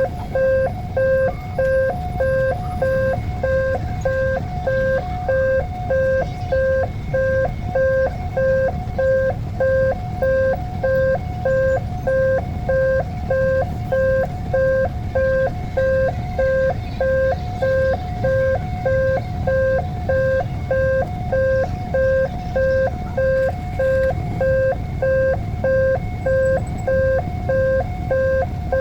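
Railway level-crossing warning alarm sounding: a rapid, evenly repeating two-tone electronic ding, with a steady low rumble beneath.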